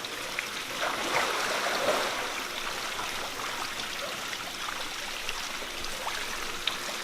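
Steady running, trickling water, with a few faint ticks and a slight swell about a second in.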